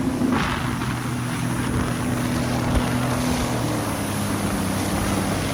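Yamaha jet ski engine running steadily at speed, a constant hum under a hiss of wind and spray.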